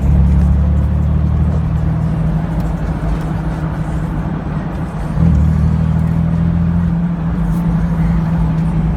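Exhaust note of a 2002 Jeep Wrangler TJ's 4.0-litre inline-six through a Magnaflow glasspack muffler while driving: a steady deep drone that surges louder at the start and again about five seconds in as the throttle is opened.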